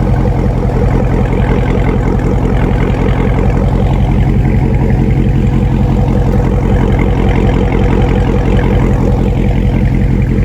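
2018 Dodge Charger Daytona 392's 6.4-litre HEMI V8 idling steadily through an exhaust with its mid-mufflers deleted.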